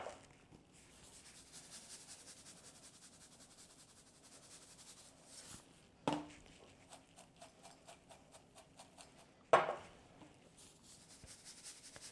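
Popped popcorn rustling as it is tossed by hand in a bowl to coat it with olive oil, with two sharp knocks, about six and nine and a half seconds in, the loudest sounds.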